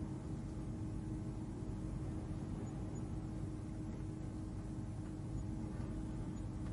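Ambient space-hum drone for sleep: a steady low rumble with a constant hum tone running through it.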